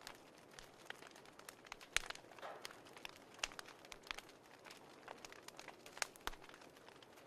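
Wood fire crackling: irregular sharp pops and snaps over a faint hiss, the loudest about two seconds and six seconds in.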